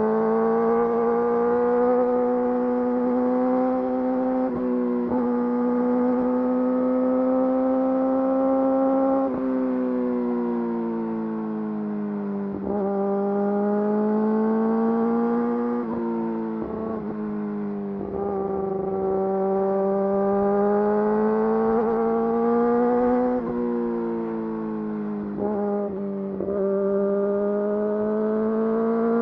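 Yamaha YZF-R6's inline-four engine through an Akrapovič full exhaust, running at steady mid revs under way. Its pitch slowly rises and falls, with brief breaks every few seconds where the note drops, as at gear changes or throttle closes.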